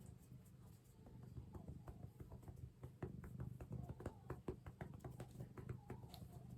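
Light, quick pats and rubs of a hand on a cat's furry belly, several taps a second, getting busier from about two seconds in.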